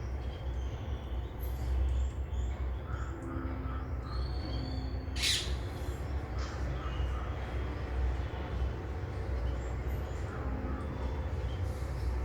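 Occasional bird calls over a steady low rumble, with one sharp, shrill call about five seconds in and fainter short calls scattered around it.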